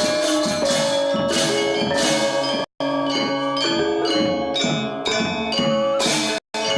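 Balinese gamelan gong ensemble playing a classical lelambatan piece: bronze metallophones and gong-chimes struck in a dense, steady stream of ringing notes. The sound cuts out to silence for an instant twice, a little under halfway through and near the end.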